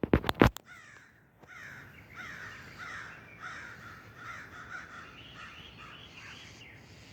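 A few sharp knocks in the first half second, then several crows cawing, starting about a second and a half in, their calls overlapping and repeating.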